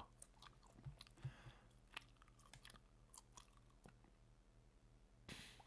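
Near silence with faint, irregular wet clicks of someone chewing close to the microphone, and a short soft hiss near the end.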